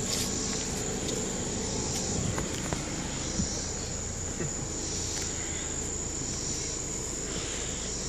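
Crickets or similar insects chirping in a steady, high-pitched chorus, over a low steady hum.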